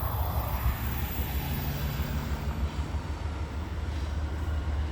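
Norfolk Southern freight train's diesel locomotives running with a steady low rumble as the train approaches.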